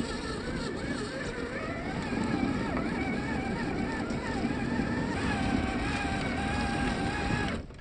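Electric drive motor and gearbox of a 1/8-scale YK4082 Pro RC rock crawler whining steadily, its pitch wavering up and down with the throttle, over a continuous rumble from the drivetrain and tyres.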